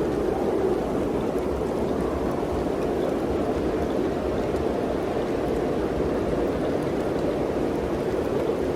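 Mountain wind blowing steadily, an even rushing noise without gusts or breaks.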